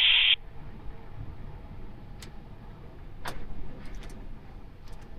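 Steady low rumble of an Airbus A321 cockpit with the engines idling, after a brief interphone hiss cuts off about half a second in. A few short sharp clicks sound over it, the loudest about three seconds in.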